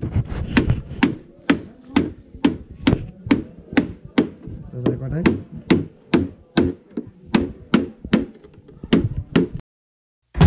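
Rapid, steady chopping or hammering blows, about two a second, stopping suddenly near the end.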